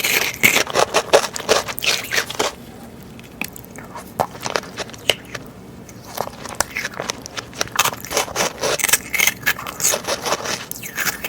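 Close-miked eating: crunchy bites and chewing, with dense crackling clicks. The sound eases off briefly about two and a half seconds in, then the crunching picks up again.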